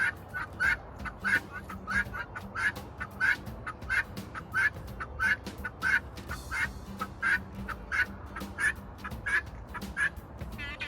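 Poultry calling over and over in short, evenly spaced calls, about three a second, with a harsh quacking quality.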